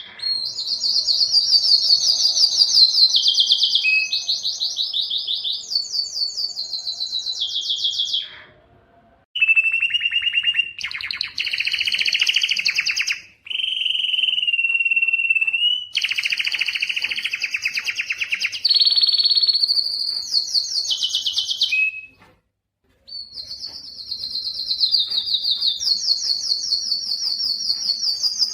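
Spanish timbrado canary singing: a continuous song of rapid trills and held notes, each phrase lasting a second or two before jumping to a new pitch, broken by two short pauses.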